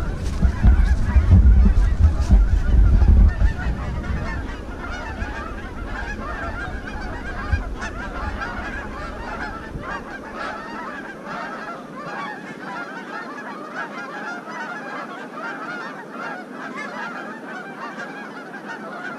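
A large flock of Canada geese honking, many calls overlapping without a break as the birds fly in and land on the water. A loud low rumble sits under the calls for the first few seconds and fades out.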